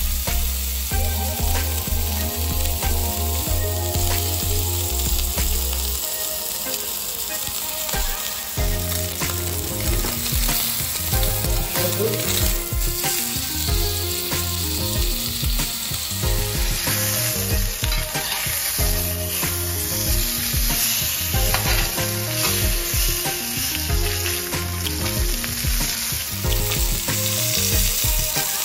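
Ribeye steak sizzling as it fries in a hot pan, a steady crackling hiss, with background music playing over it.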